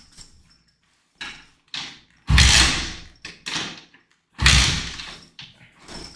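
Thuds and clatter from attempts to start a dirt bike, with two loud, heavy ones about two and four seconds in. The engine does not catch and run.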